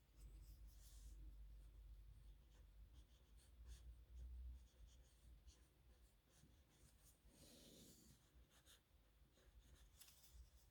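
Faint scratching of a dip pen's metal nib on paper in quick, irregular strokes and flicks, with the densest scratching a little after the middle and again near the end.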